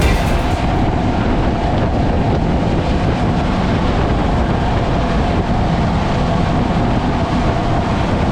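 Powerboat running steadily at speed: a constant engine drone under an even rush of noise.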